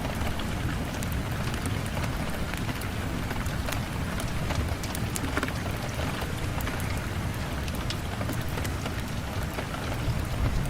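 Steady rain on a window, an even hiss with many small, sharp drop ticks scattered through it.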